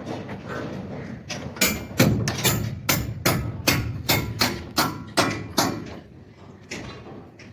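Hammer blows on the truck's bent metal side wall as it is straightened: a quick run of strikes, about four a second, starting about a second in and lasting some four seconds, then one more blow near the end.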